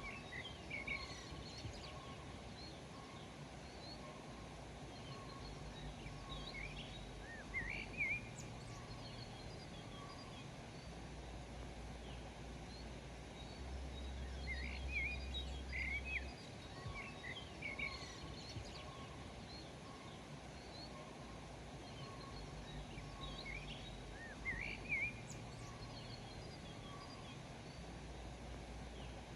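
Small songbirds chirping in short clusters of quick notes every several seconds, over a steady low background rumble.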